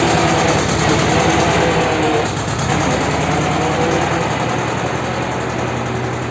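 Vladimirets T-25 tractor's air-cooled two-cylinder diesel engine running after a cold start, its speed easing down slightly about two seconds in.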